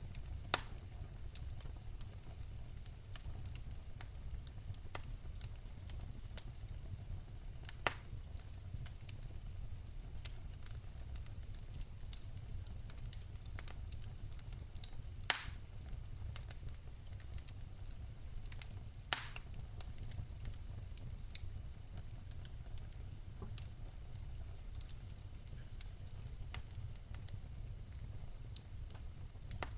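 Wood fire burning in a fireplace: a steady low rumble of flames with frequent small crackles and a few sharp, louder pops from the burning logs.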